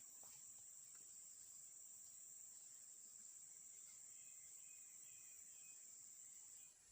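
Crickets trilling steadily in one continuous high-pitched drone, which cuts off shortly before the end.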